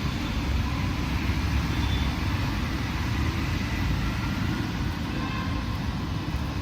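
Steady road traffic on a busy city street: vehicles running and passing in a continuous low rumble, with no single event standing out.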